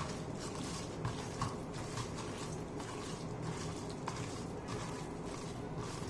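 Boneless chicken pieces being mixed into a masala coating, giving soft wet squishing with a few faint clicks.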